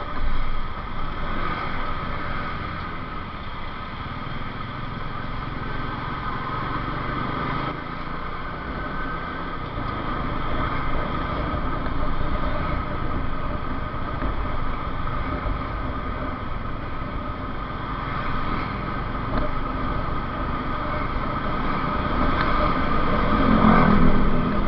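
Motorcycle being ridden at a steady pace, its engine running under a continuous rush of road and wind noise, getting slightly louder near the end.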